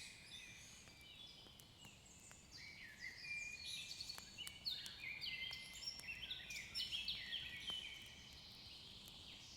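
Faint birdsong: many short chirping notes from several birds overlapping, busiest from about three to eight seconds in, with a few faint clicks among them.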